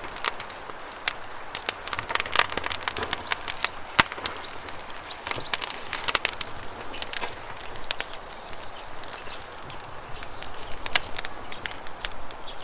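Campfire crackling with irregular sharp pops, clustered about two to four seconds in and around six seconds, the loudest pop about four seconds in, over a steady rush of flowing river water.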